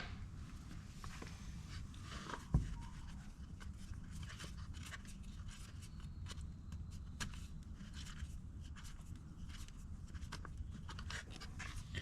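Faint scattered clicks and taps of hands working the oil bottle, funnel and screw-in dipstick while engine oil is topped up, with one louder knock about two and a half seconds in, over a low steady hum.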